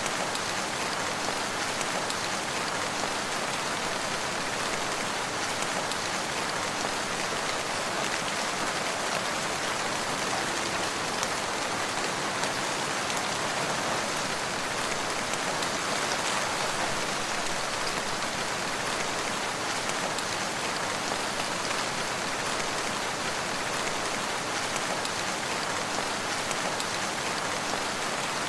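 Steady rain falling and pattering on surfaces, an even hiss with no thunder or other events.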